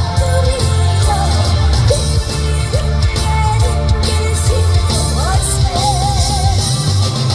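A woman singing with wide vibrato over loud amplified backing music with a heavy, steady bass beat.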